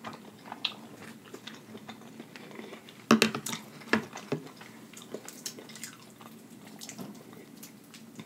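A person chewing fried wontons with the mouth, giving wet smacks and small clicks, with a couple of louder mouth sounds about three seconds in and again about a second later.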